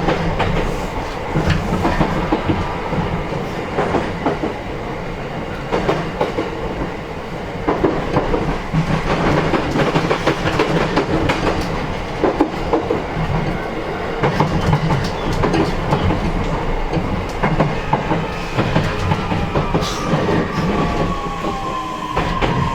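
Heard from inside a JR E131-1000 series motor car: running noise and a steady rumble, with wheels knocking over rail joints. From about nineteen seconds in, a falling electric motor whine as the train slows.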